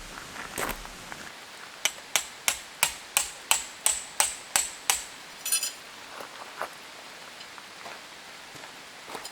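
A hammer driving a metal tent peg: about ten quick blows, roughly three a second, each with a bright metallic ring, followed by a short metallic rattle. Steady rain patters throughout.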